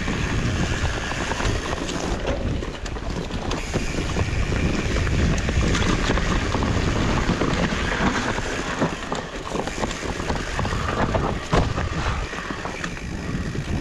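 Wind buffeting the microphone while riding a fat-tyre mountain bike, with the rumble of the tyres on the trail and scattered knocks and rattles from the bike.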